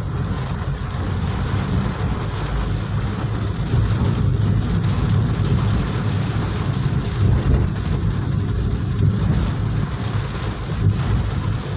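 Wind buffeting the microphone in an uneven low rumble, over the steady hiss of heavy rain falling.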